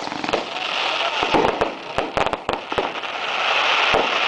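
Bonfire burning, with dense, irregular crackling and sharp pops from the wood over a steady hiss.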